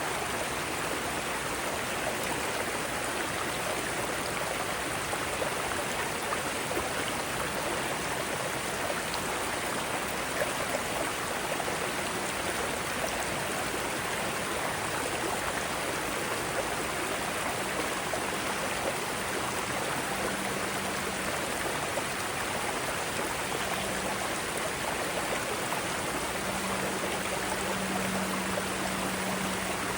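Mountain stream water cascading over rocks: a steady, even rushing of flowing water.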